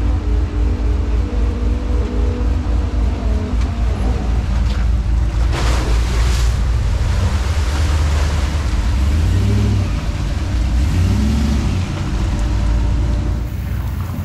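Four-wheel-drive vehicle's engine running at low revs, its pitch rising and falling, with a short burst of hiss about six seconds in.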